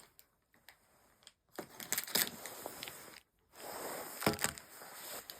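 Crinkling and rustling of an advent calendar's cardboard and candy wrapper being handled, in two stretches with light clicks and a short pause between them.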